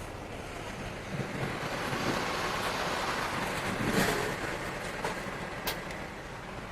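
Car road noise heard from inside the moving car, swelling to a louder peak about four seconds in, with a short sharp click near the end.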